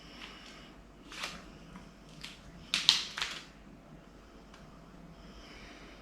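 Plastic parts of a cordless stick vacuum being handled and fitted together: a few light clicks and knocks, the loudest cluster about three seconds in.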